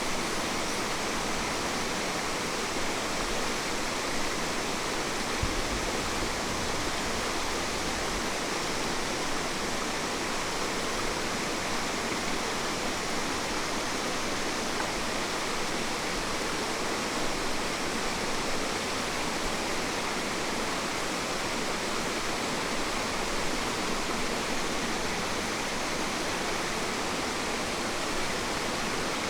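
Steady, unbroken rushing of water from a waterfall and the stream below it, an even noise that holds the same level throughout.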